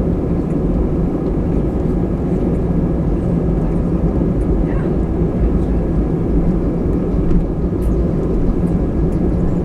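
Steady jet engine and airflow rumble heard inside the cabin of an Airbus A320, deep and even, with a faint steady whine above it and a few light clicks.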